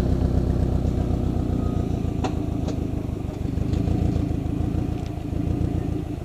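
Subaru's turbocharged flat-four boxer engine idling just after start-up, through a freshly fitted aftermarket downpipe and exhaust that is held on with zip ties. The exhaust note is steady and pulsing, a loud purr, with a few faint ticks over it.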